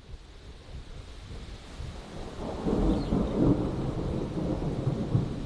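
Thunderstorm: steady rain hiss with a deep rumble of thunder that swells about two and a half seconds in.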